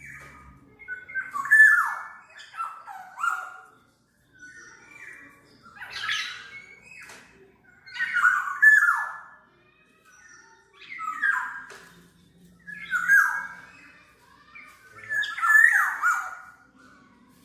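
Black-naped oriole (kepodang) calling in about six phrases, each a cluster of quick falling notes mixed with scratchy, noisy sounds, repeated every two to three seconds.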